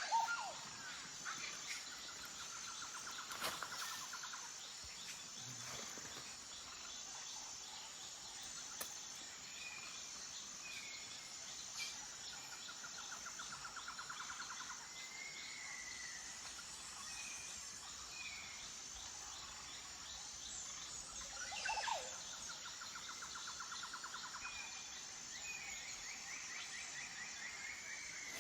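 Forest ambience: a steady, pulsing chorus of insects, with birds calling over it. The bird calls include rapid trills that recur every ten seconds or so, short high chirps, and a louder sweeping call just after the start and again about 22 seconds in.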